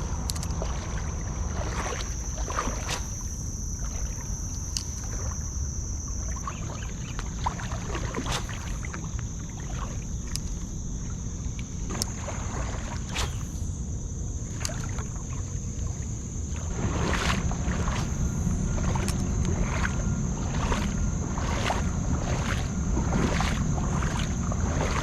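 Creek water rushing steadily over rocks and a small waterfall, a low continuous noise that swells slightly about two-thirds of the way through. Scattered short clicks and knocks run over it, along with a steady high thin whine.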